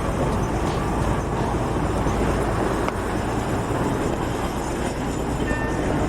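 Steady vehicle driving noise, with wind and road noise rumbling on the microphone.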